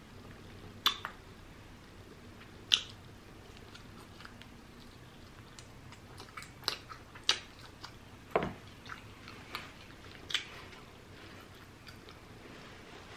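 Close-miked chewing of rotisserie chicken: scattered sharp wet mouth clicks and smacks, a few at first and then coming thicker for several seconds in the second half.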